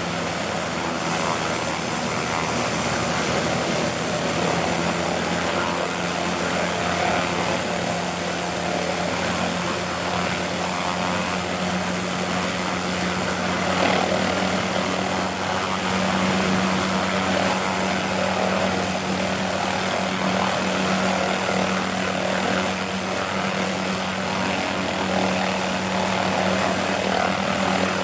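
MD530FF light turbine helicopter running steadily: the rotor sound mixed with the steady high-pitched whine of its turboshaft engine.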